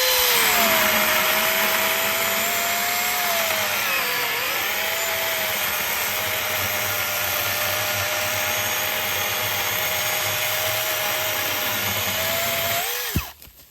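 Cordless battery chainsaw running with a steady motor whine, its pitch dipping briefly a few seconds in, then winding down and stopping near the end.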